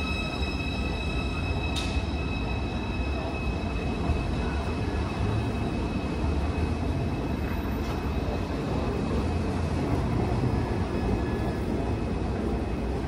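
ICE 4 high-speed electric train pulling out of the station, a steady rumble as it rolls along the platform, with a high whine that fades about two seconds in.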